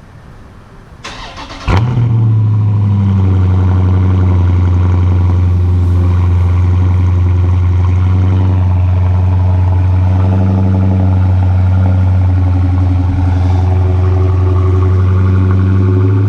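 2016 Dodge Charger Scat Pack's 6.4-litre 392 Hemi V8 on its stock exhaust, cold-started. The starter cranks briefly, and the engine catches with a sharp flare nearly two seconds in. It then runs at a steady, loud idle.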